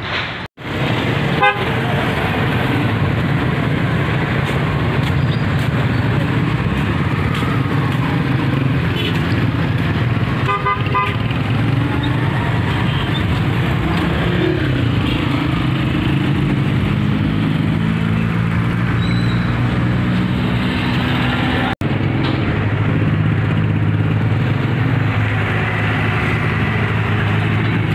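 Road traffic on a bridge: car and motorcycle engines running, with horns tooting a few times over a steady rushing noise. The sound cuts out briefly twice.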